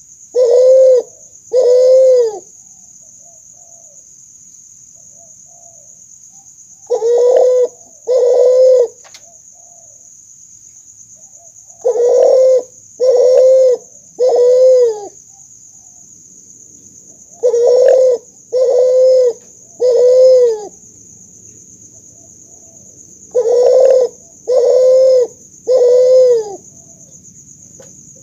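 Hybrid dove (spotted dove × Barbary dove cross) cooing: phrases of two or three deep coos, each about half a second long, repeated every five or six seconds. A steady high-pitched whine runs underneath.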